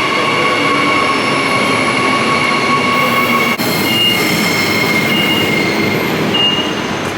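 Suburban passenger train running, with steady high-pitched whining tones over a rumbling noise. About halfway through the sound changes abruptly, and short high beeps then repeat about once a second.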